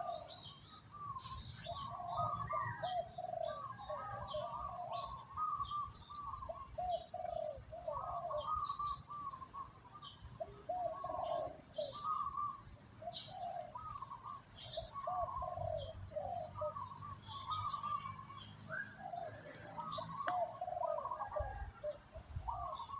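Birds calling throughout: doves cooing in short repeated phrases, over scattered higher chirps from other birds, with a faint low rumble underneath.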